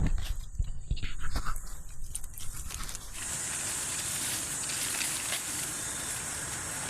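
Rustling and light knocks in the undergrowth for about three seconds, then an abrupt switch to steady forest ambience dominated by an even, high-pitched hiss.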